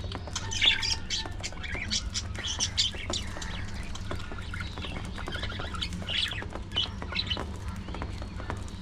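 A flock of budgerigars chattering and squawking, many quick overlapping chirps and calls, over a steady low hum.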